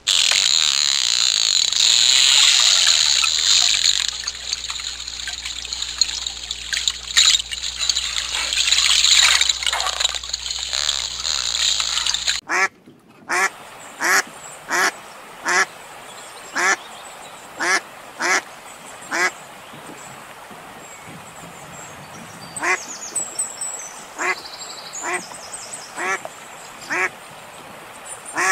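A loud rushing noise with scattered clicks for about the first twelve seconds. It cuts off suddenly and gives way to a steady series of short, nasal waterfowl calls, roughly one or two a second, each bending in pitch.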